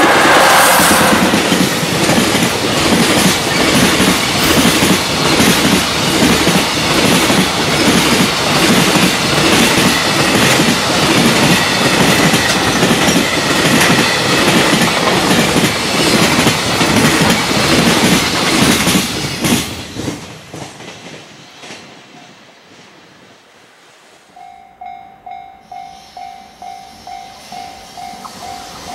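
Freight train passing at speed: a loud, dense clatter of wheels over the rail joints, fading away after about twenty seconds. Then a level-crossing warning bell ringing in quick, even pulses near the end.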